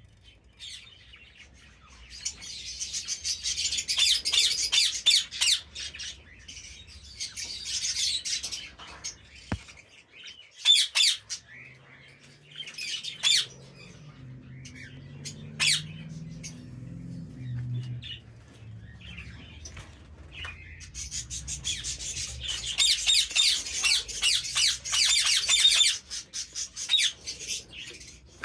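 A flock of small birds chirping and chattering rapidly in dense bouts, with scattered single calls between the bouts. A fainter low sound comes in for a few seconds midway.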